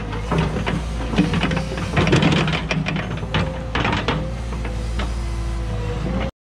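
Cat 314E excavator working: the diesel engine runs steadily under load with a held hydraulic whine, over a run of clanks and scrapes from the bucket or ripper working ground and rock. The sound cuts off abruptly near the end.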